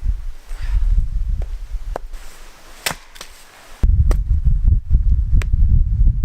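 Swedish axe splitting firewood: several sharp chopping strikes a second or two apart, the sharpest about three seconds in. Wind buffets the microphone with a low rumble that drops away for a moment in the middle.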